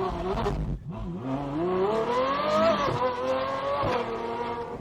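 Ferrari 812 Superfast's V12 with a Novitec straight-pipe exhaust accelerating hard off a launch. The revs climb for nearly two seconds, dip briefly at an upshift, then hold and ease off near the end.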